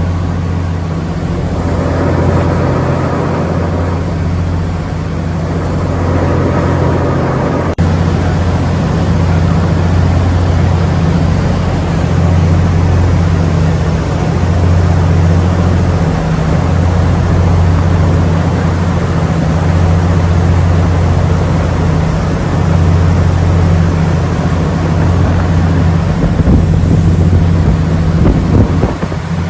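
Passenger ferry's engine running steadily on board, a loud low drone with the hiss of wind and water over it.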